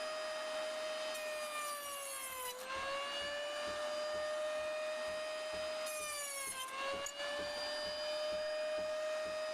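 Electric saw cutting wood for beehive frames. The motor runs with a steady whine, and twice a hissy cutting noise builds as the blade goes through the wood while the whine sags in pitch under the load, then recovers.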